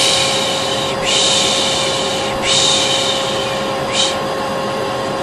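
Hair dryer running steadily with a constant hum, overlaid by repeated 'shh' shushing sounds of about a second each. There are three long shushes and one short one, used to soothe a colicky baby.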